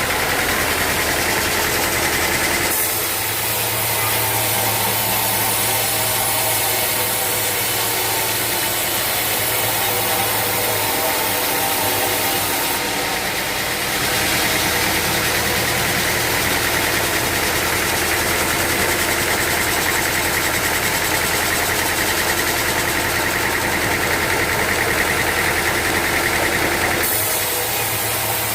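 Sawmill machinery running steadily with an engine-like drone. Its tone shifts about three seconds in, again about halfway through and again near the end.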